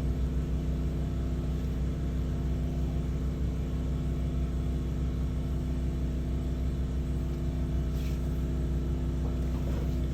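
Drain-cleaning machine running steadily with an even drone while its line is worked through a grease clog in a sewer pipe.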